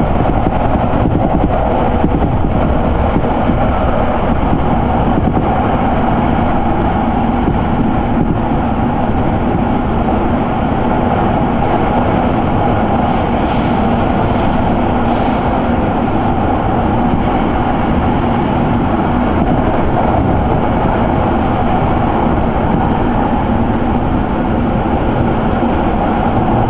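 Electric commuter train running steadily at speed, heard from inside the passenger car: a continuous rumble of wheels on rail and motor noise, with a faint hiss briefly in the middle.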